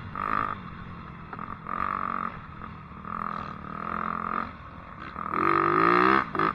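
Dirt bike engine running and revving, its pitch rising and falling with the throttle, swelling loudest near the end.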